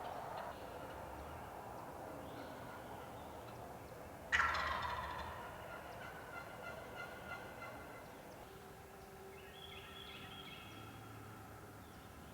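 Wild turkey gobbler gobbling: one loud, sudden gobble about four seconds in that trails off over a second or so, with fainter calls after it.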